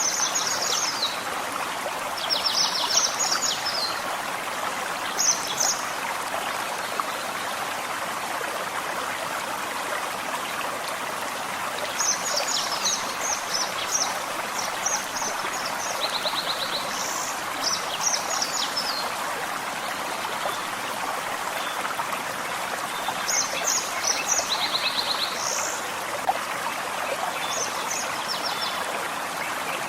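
Gentle forest stream running steadily, with birds singing short, high, chirping phrases on and off over the water.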